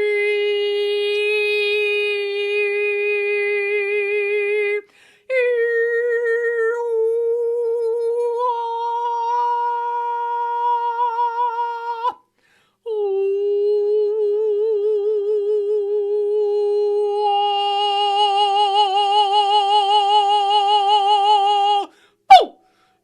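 Channeled vocal toning: a voice sings three long, held vowel tones, pitch wavering with vibrato that grows stronger in the last tone, with short breaks for breath between them. A single sharp click comes near the end.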